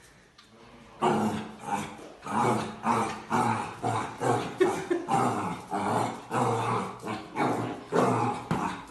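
A dog vocalising in a rapid run of short growling barks and grumbles, starting about a second in and going on without a break.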